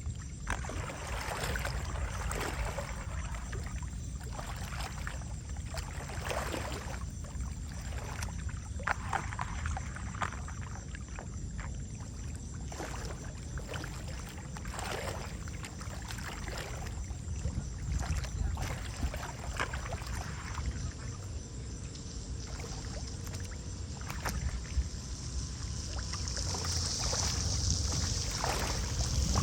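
Water splashing and sloshing in irregular strokes, over a steady low rumble, as a blocked storm drain is cleared of mud and debris. A hiss builds near the end.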